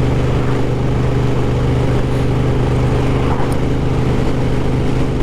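Moto Guzzi Griso 1200's transverse V-twin engine running at a steady cruising speed, its pitch holding level with no revving.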